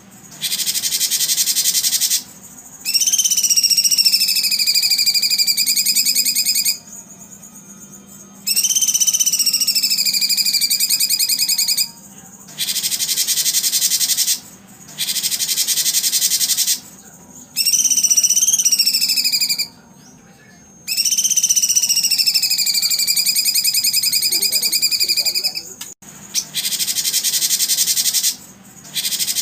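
A recording of songbird whistles alternating with insect buzzing. Short spells of dense, high insect buzzing alternate with four long whistled bird calls, each gliding down and then holding a steady pitch, with brief pauses in between.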